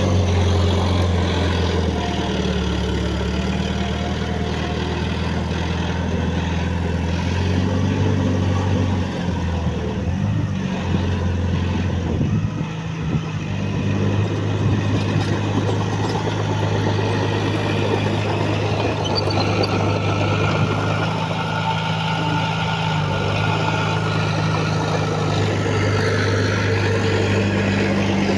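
Heavy diesel engine of an earthmoving machine running steadily; its pitch drops and wavers about a third of the way in, then settles again.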